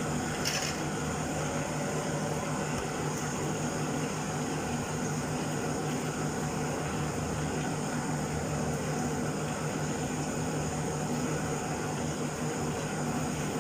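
Chicken frying in hot oil in a pan, a steady sizzle over a constant low hum, with a short sharp knock about half a second in.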